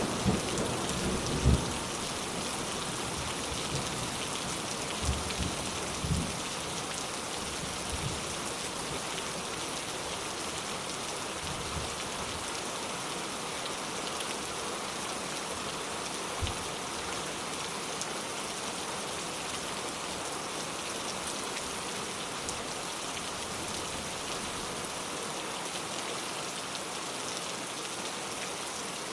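Steady rain falling, with the tail of a low thunder rumble dying away in the first second or two. A few louder single drops knock briefly against the steady patter.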